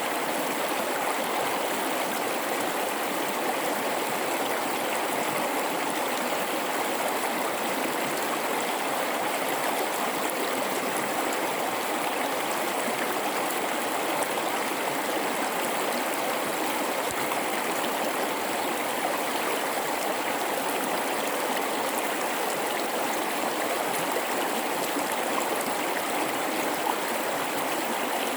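River flowing through a gorge: an even, unbroken rush and babble of running water.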